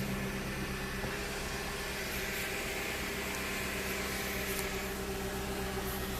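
Volkswagen Passat's 4.0-litre W8 engine idling steadily after a rev: an even low hum with a light hiss over it.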